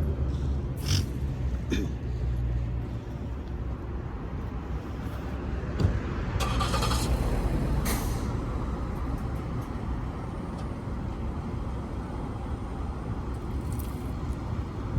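Street traffic: a heavy vehicle's engine running low and steady, with a few short hisses, the longest lasting about a second around six and a half seconds in.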